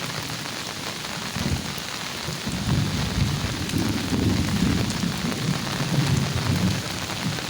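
Steady rain falling, with a low, uneven rumble that comes in about a second and a half in and grows louder from about two and a half seconds.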